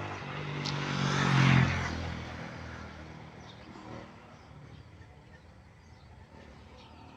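A motor vehicle passes close by. Its engine and tyre noise swell to a peak about a second and a half in, then fade away, the engine pitch dropping slightly as it goes past.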